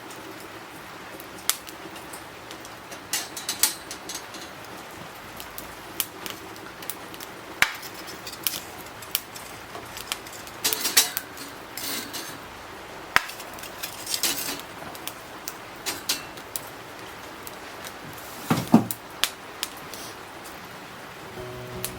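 Irregular clinks and knocks of cookware and utensils being handled during outdoor cooking, a sharp click every second or two, with the loudest knock near the end.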